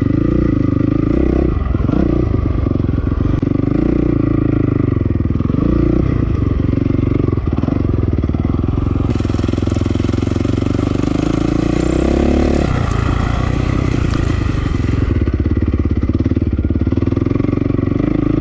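2008 Honda CRF450R's single-cylinder four-stroke engine heard from the rider's helmet, revving up and falling back over and over as the dirt bike is ridden around a motocross track. A rushing hiss joins in from about nine to fifteen seconds in.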